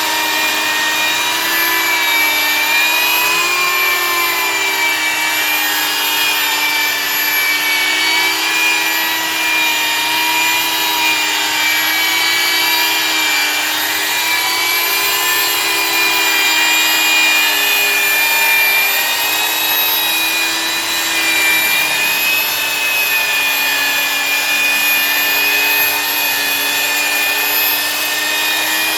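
Electric glass-polishing machine running steadily, its pad rubbing over the glass; the motor's pitch dips and rises slightly now and then.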